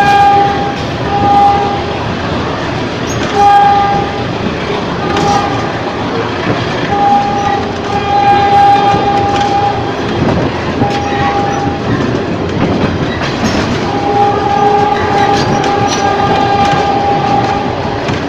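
A Philippine National Railways train's horn sounding over and over in short blasts, with one long blast near the end, over the steady running and rail-joint clatter of an ex-JR 203 series EMU coach.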